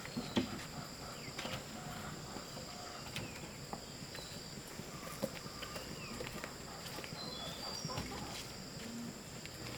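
Insects singing in two steady high tones, with a few short bird chirps and scattered light knocks.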